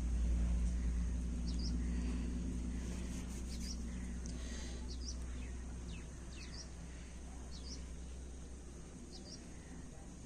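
Small birds chirping in short high notes, many in pairs, every second or so, over a low rumble that slowly fades.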